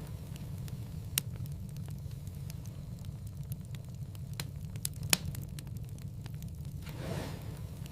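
Wood fire burning in a fireplace: a steady low rumble of flames with scattered sharp crackles and pops, the loudest about five seconds in, and a soft whoosh of flaring flame near the end.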